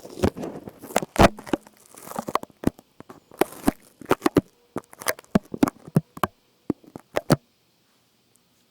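Close-miked ASMR trigger sounds: a rapid, irregular run of crinkling, crackling and tapping that stops abruptly about seven seconds in.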